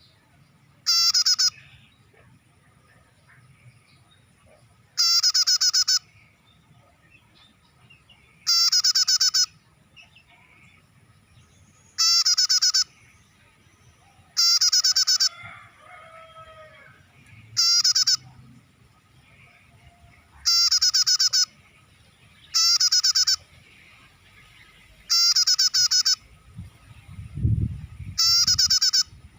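Prenjak (bar-winged prinia) lure call played on a loop: ten loud, identical bursts of fast, high chattering notes, each under a second long and a few seconds apart. A low rumble comes in near the end.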